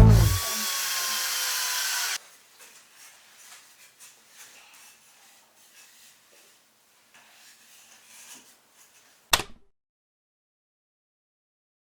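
A steady hiss that stops abruptly after about two seconds, then faint scattered taps and one sharp knock near the end, followed by silence.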